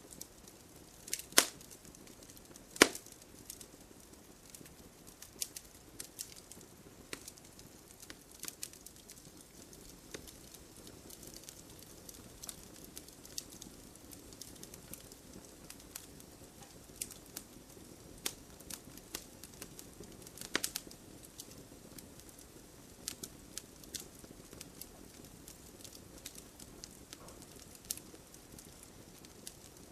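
Wood campfire burning, crackling with irregular sharp pops over a low steady hiss; two loud snaps come in the first three seconds and another cluster about two-thirds of the way through.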